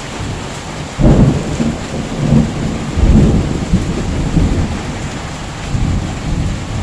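Heavy rain falling steadily, with deep rumbles surging up sharply about a second in and again about three seconds in, then easing.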